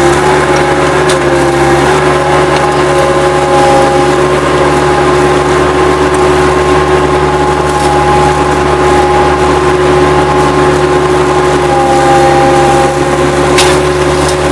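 Bobcat 763 skid steer's diesel engine running steadily, with a steady whine riding over it and a sharp knock near the end.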